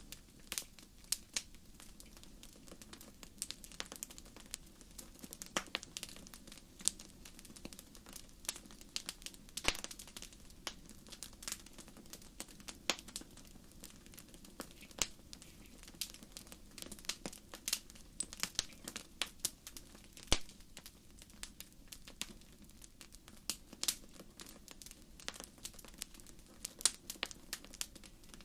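Wood fire crackling: irregular sharp pops and snaps, several a second with a few louder ones, over a low steady hiss of flames.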